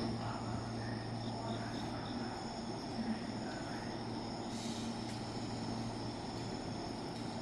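Steady ambience with a constant low hum and a continuous high-pitched chirring of insects such as crickets; no train is arriving or departing.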